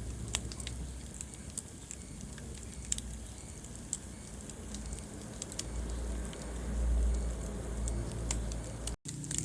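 Wood fire burning in a fireplace: irregular sharp crackles and pops over a low, steady rumble of flames that swells briefly past the middle. The sound cuts out for an instant near the end.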